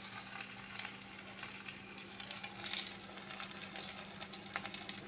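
A ball of pakora batter deep-frying in hot oil in a wok: a steady sizzle that turns into louder, dense crackling about two seconds in.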